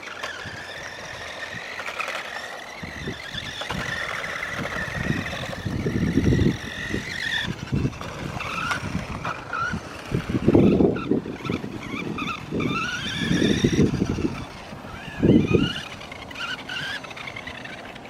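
Electric motor of a remote-control truck whining, its pitch rising and falling as it speeds up and slows, with several louder rough bursts along the way.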